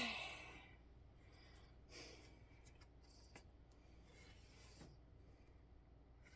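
Near silence with a few faint soft rubs and rustles, the sound of embroidery thread and needle being drawn through cross-stitch fabric.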